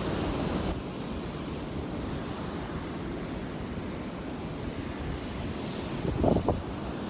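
Gulf of Mexico surf washing onto a sandy beach, a steady rush of waves with wind buffeting the microphone. A short, louder sound breaks through briefly about six seconds in.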